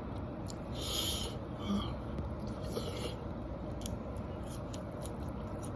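Quiet eating sounds from close up: soft chewing, wet mouth smacks and rubbing, with a few brief louder bursts and faint clicks over a steady hiss.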